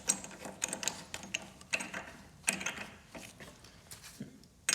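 Spark plug wrench clicking in quick runs as a spark plug is screwed back into a lawn mower engine. The clicks thin out after about two and a half seconds, with one louder click at the very end.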